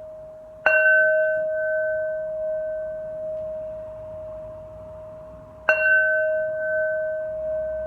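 A ritual bell struck twice, about five seconds apart. Each strike rings out in a clear tone that fades slowly, over the ring of an earlier strike still sounding.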